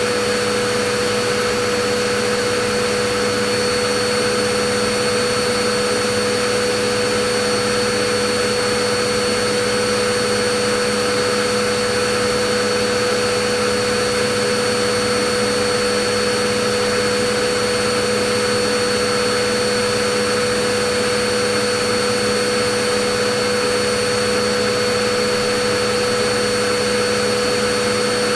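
Vacuum cleaner running steadily: an even rush of air with a constant motor hum and a high whine held on top, unchanging.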